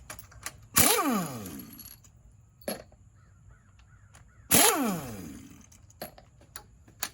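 Impact wrench zipping bolts off an engine, two short bursts each falling in pitch as it runs down, about a second in and again about four and a half seconds in.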